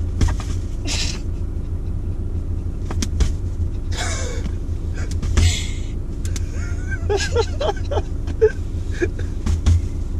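Car engine idling, heard from inside the cabin as a steady low rumble, with a few brief noises over it and short bursts of laughter near the end; no pop.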